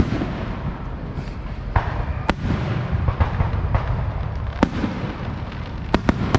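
Fireworks going off some way off: sharp bangs scattered over a steady low rumble, with a quick pair of bangs near the end.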